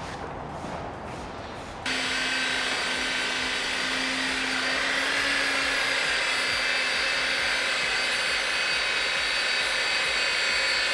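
A powered workshop machine starts abruptly about two seconds in and runs steadily with a loud hiss and a low hum.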